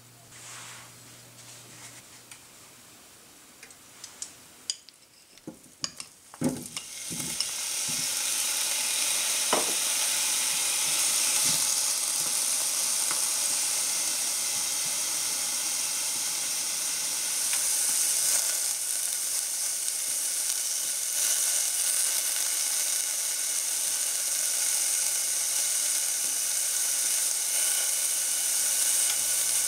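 A few knocks as pineapple chunks go into a nonstick saucepan, then from about seven seconds in a steady, loud sizzle of the pineapple frying in hot oil, turned over with wooden chopsticks.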